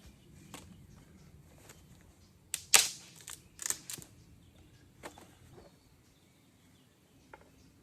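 Dry willow twigs snapping: a quick run of sharp cracks a few seconds in, the loudest about midway, then a single weaker crack a second or so later.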